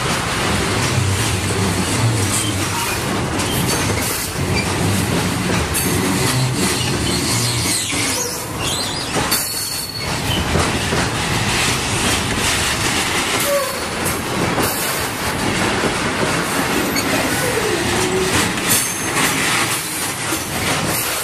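Freight train of container-loaded flat wagons rolling past close by: a steady rumble of steel wheels with rapid clattering knocks over the rail joints, and a few brief wheel squeals.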